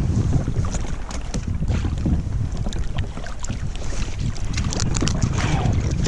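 Wind buffeting the microphone in a steady low rumble, with irregular small clicks and ticks scattered through it.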